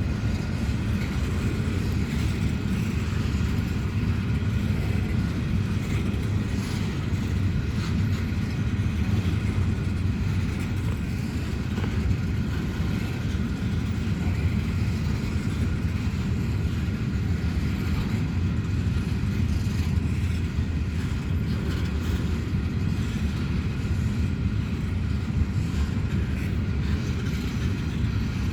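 An empty coal train rolling through on arrival: a steady, continuous rumble from the locomotives and empty wagons, with faint steady high tones and occasional light wheel clicks above it.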